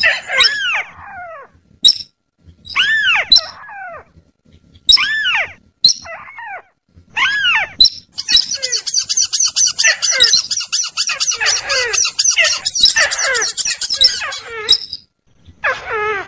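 Bird-luring call audio: loud calls that rise briefly and then fall steeply, repeated every second or two, with a dense high chattering layered in from about eight seconds in until near the end.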